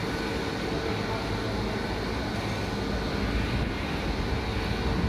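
Steady running noise of a heat-treatment furnace line, an even mechanical hum and rush with a few constant tones and no breaks.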